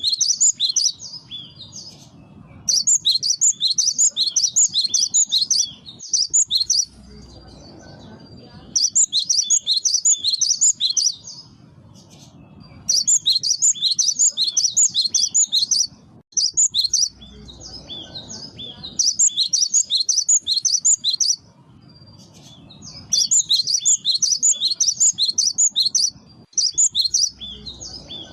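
Cinereous tit (gelatik batu) singing in bursts of rapid, high chirps about two to three seconds long, repeating at a regular pace with short pauses between. This is a lure song played to attract wild birds.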